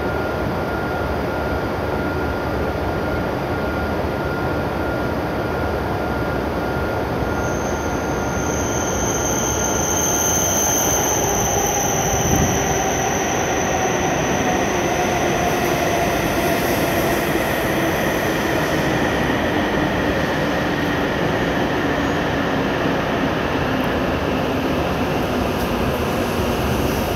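W7 series Shinkansen train pulling into the platform and slowing down: steady rolling noise, with a whine that falls in pitch as it decelerates and a high squeal from about eight to fourteen seconds in.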